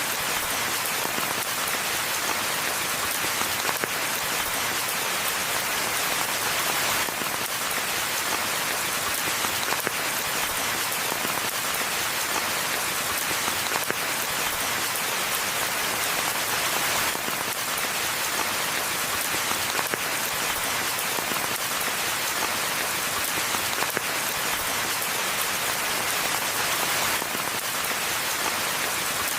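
Steady rainfall in a forest, a dense even patter of drops with no thunder.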